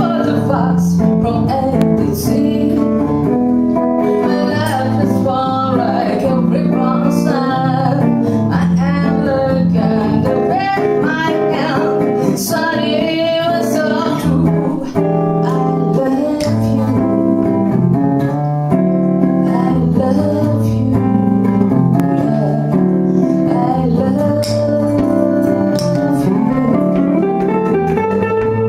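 Live band music led by guitar, with a singing voice through the middle.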